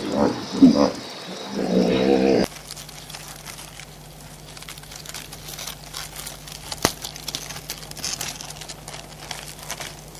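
Hippopotamuses grunting and honking for the first couple of seconds, then it cuts off sharply. After that, hermit crabs make faint, scattered clicking and scratching as their legs and shells knock and scrape, with one sharper click about halfway through, over a low steady hum.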